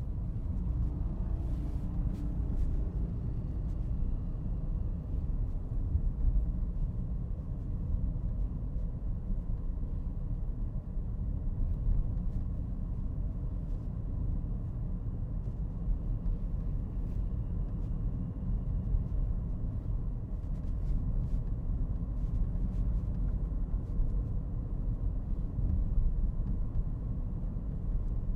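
Steady low rumble of road and vehicle noise, as from a moving car, with a few faint clicks.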